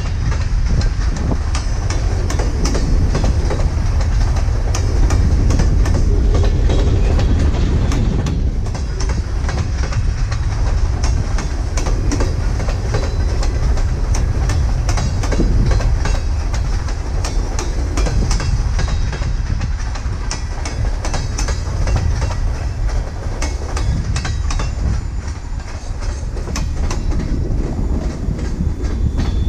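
Freight train of ballast hopper cars rolling past at close range: a steady low rumble with many sharp wheel clicks over the rail joints.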